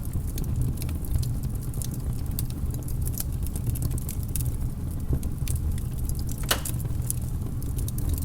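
Fireplace fire crackling: frequent, irregular sharp snaps and pops over a steady low rumble, with one louder pop about six and a half seconds in.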